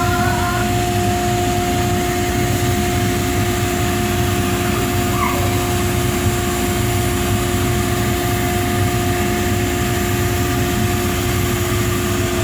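Blademaster skate sharpener running steadily, its dust blower and finishing-wheel motor making a constant whirring noise with a steady two-note hum.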